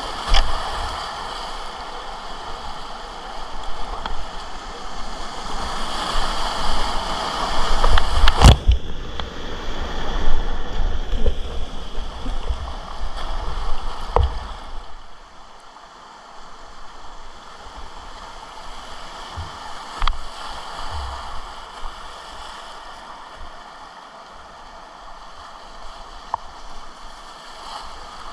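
River rapids rushing and splashing around a kayak, with a sharp knock about eight seconds in; the water grows quieter about halfway through.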